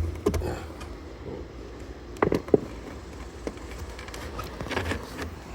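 Motorcycle seat being worked free with its release lever: handling noise and two short clunks, a fraction of a second apart, a little over two seconds in.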